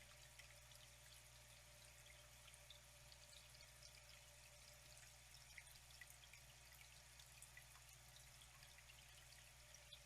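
Faint flowing water: a steady trickle with many small scattered drips and splashes.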